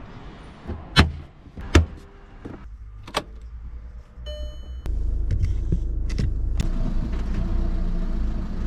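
Audi A3 8P: two sharp knocks, like doors or the tailgate shutting, about a second apart, then a brief electronic beep, then a steady low rumble, like the engine running, that starts suddenly about halfway through.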